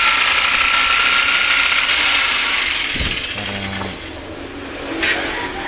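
A handheld power tool (drill or jigsaw) running under load as it cuts the handle opening in a subwoofer box panel, with a steady motor whine. The tool eases off about four seconds in, followed by a brief knock.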